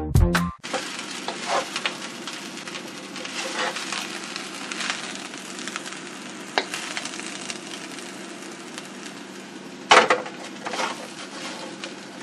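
Fried rice with sausage and vegetables sizzling in a steel wok as it is stirred and tossed, with irregular scrapes and clatters through the steady frying hiss. There is one sharp knock about ten seconds in.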